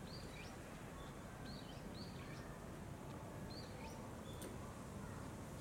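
Small birds chirping faintly in short, repeated calls over a steady outdoor background hiss.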